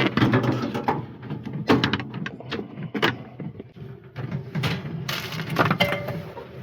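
A toaster oven being taken down and set in place: a run of irregular knocks, thuds and rattles.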